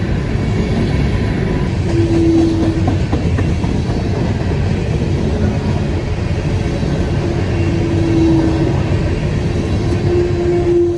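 Freight train of empty hopper cars rolling past, with steady rumble and wheel clatter on the rails; a single steady tone rises out of it briefly three times.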